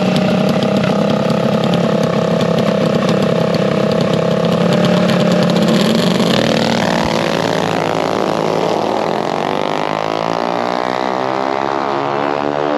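Minibike drag-racing engines running hard, a rough steady racket at first. From about seven seconds one engine's pitch climbs steadily as a bike accelerates down the strip.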